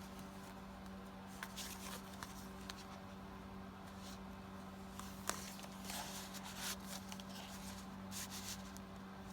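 Faint rustling, sliding and light tapping of paper tags and card pieces as they are handled and tucked into journal pockets, over a steady low hum.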